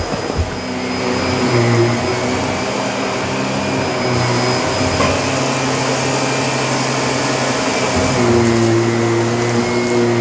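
Shark vacuum cleaner running on carpet: a steady motor hum under a rushing air hiss. The hiss grows louder about four seconds in and eases again near eight seconds, with a slight shift in the motor's pitch.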